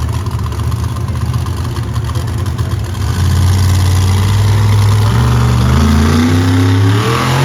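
Monster truck engine running loudly, then revving harder from about three seconds in, its pitch climbing steadily.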